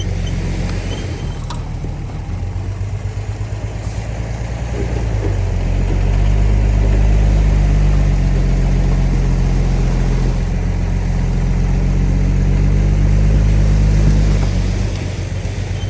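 Bulldozer diesel engine running, swelling louder and heavier about five seconds in, holding there for several seconds, then easing back down near the end.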